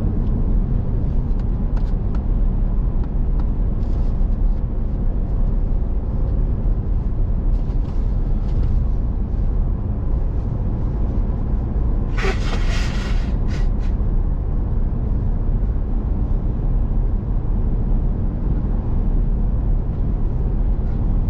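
Steady low road and engine rumble inside a moving pickup truck's cab. About twelve seconds in, a short rush of hissing noise lasts under two seconds.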